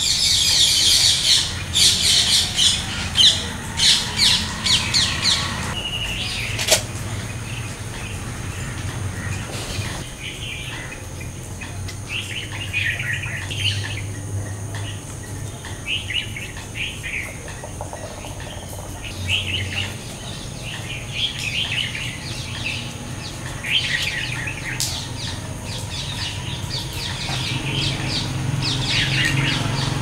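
Wild bird calls: a loud, rapid series of high calls for the first five seconds or so, then quieter short bursts of chirping on and off.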